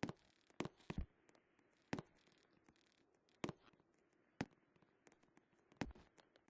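Lovebirds pecking and scratching: irregular sharp clicks and taps, about eight in a few seconds, over faint scratching.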